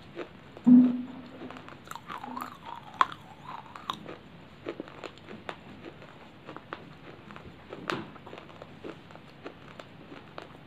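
Close-up chewing and crunching of baked clay chips: many small, sharp crunches and clicks in the mouth. A brief low tone about a second in is the loudest sound.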